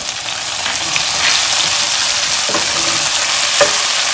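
Freshly added chopped tomatoes sizzling in hot oil in a frying pan, the hiss growing louder over the first second and then holding steady. A wooden spatula stirs through them, knocking twice against the pan.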